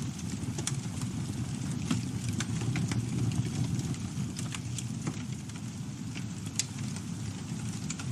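Campfire burning: a steady low rumble of flames with scattered crackles and pops of burning wood, one louder pop about six and a half seconds in.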